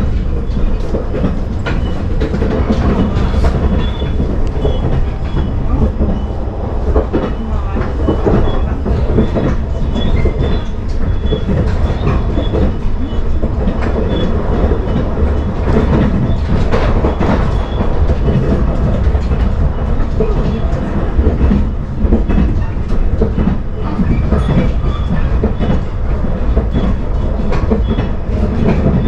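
Passenger train running along the track, heard from inside the carriage: a steady rumble with the clickety-clack of the wheels over the rails.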